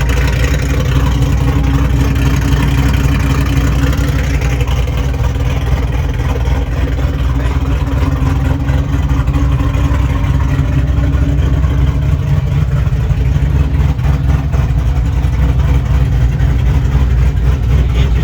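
A car engine idling steadily and evenly, with no revving.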